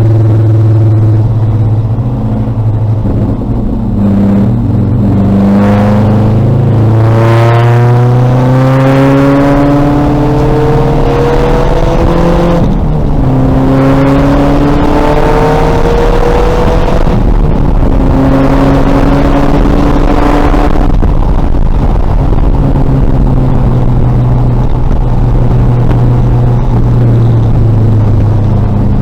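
2000 VW Golf race car's engine revving hard, its pitch climbing again and again through the gears, with a drop at each shift.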